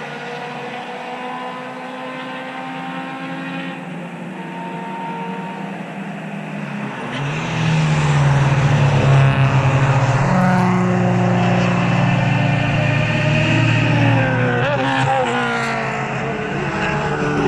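Race cars passing at speed, their engines louder and closer from about halfway through, with engine pitch sliding up and down near the end as cars go by.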